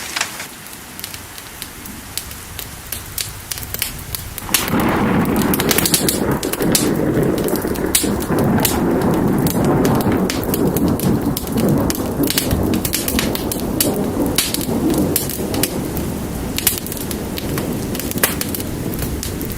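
Wood fire crackling with steady rain; about four seconds in, a long roll of thunder starts and rumbles on, slowly easing off later.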